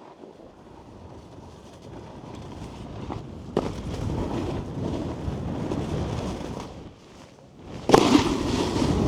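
Snowboard sliding and scraping over packed snow, growing louder as speed builds. A brief quiet gap is followed near the end by a sudden hard impact and louder scraping, the board landing a jump.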